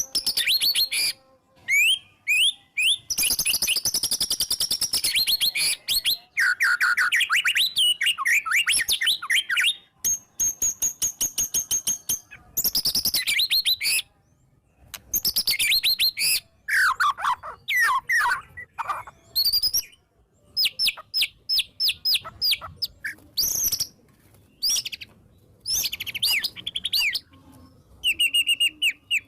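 White-rumped shama singing in full voice: a fast, varied run of loud whistles, rapid trills and sharp repeated notes, with several phrases sweeping down in pitch and short pauses between bursts of song.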